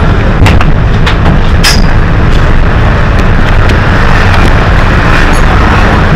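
Hino HS8JRVL city bus under way: its diesel engine and road noise make a loud, steady low rumble, with light rattles and clicks on top.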